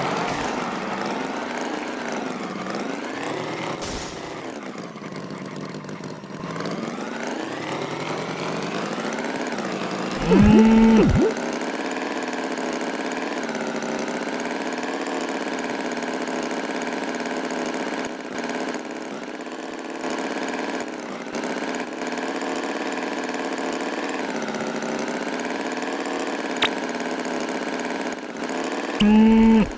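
A small engine idling steadily, its pitch wavering slightly, with two short, louder tones cutting in, about ten seconds in and again near the end.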